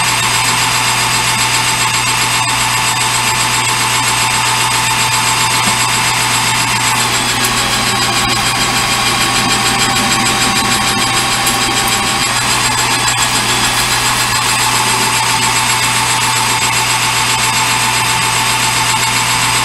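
Metal lathe running steadily, a constant motor and spindle whine over hum, turning steel stock down in diameter.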